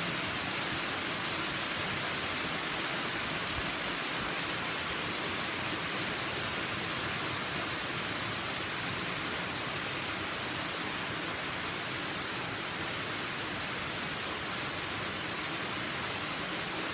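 Rainwater pouring steadily over a drop as a waterfall, swollen by about five inches of rain: an even, unbroken rushing hiss.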